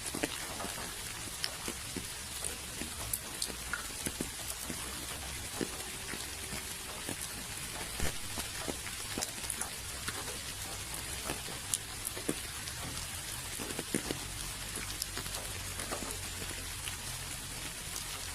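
Steady rain with many separate drops ticking and pattering on nearby surfaces over a constant hiss, with a faint low rumble underneath.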